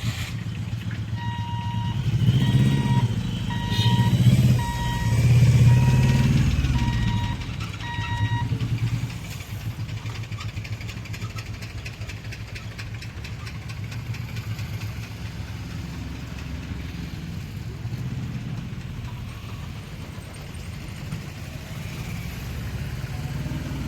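Motor vehicle engines running, with an electronic beeper sounding about once a second over them for the first eight seconds or so. After the beeping stops the engines carry on more quietly and steadily.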